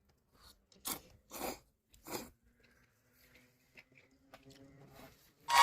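A person chewing a mouthful of food close to the microphone, with three short, crisp chewing bursts in the first couple of seconds and faint mouth clicks after.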